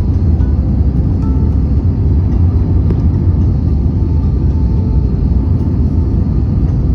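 Airplane noise during landing: a steady low rumble of engines and rushing air that holds even throughout.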